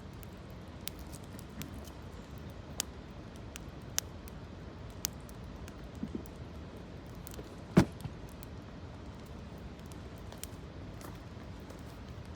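Wood campfire crackling, with scattered sharp pops about once a second and one louder pop about eight seconds in, over a steady low background noise.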